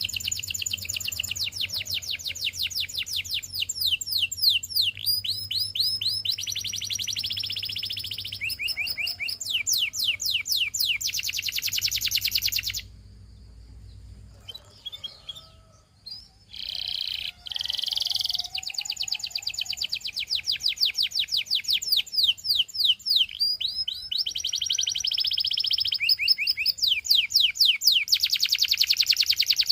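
Domestic canary singing in long, fast trills and rolls of repeated high notes, breaking off for about three seconds midway and then resuming.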